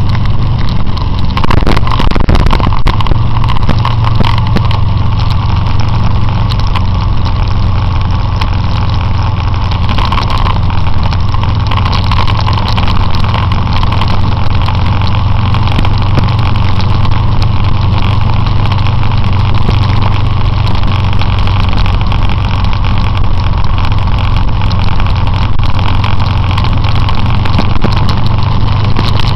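Motorcycle engine running steadily at an even pitch, loud and unchanging throughout.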